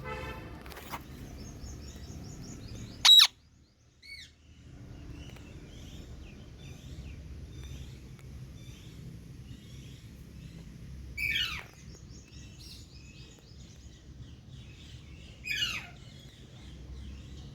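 Parrot calling: a squawk at the start, one very loud sharp call about three seconds in, then two calls that sweep down in pitch, about 11 and 15 seconds in. Faint high chirps repeat throughout over a steady low hum.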